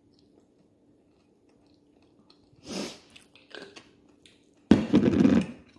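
A person chewing food close to the microphone, with small mouth clicks over a faint steady hum. There is a short louder noise about three seconds in, and a louder muffled burst lasting under a second near the end.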